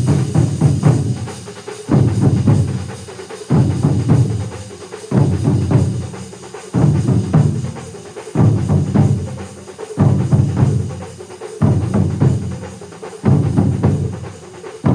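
A large ensemble of many drummers playing together. A heavy low beat lands about every second and a half and fades before the next, under a dense, rapid rattle of stick strokes.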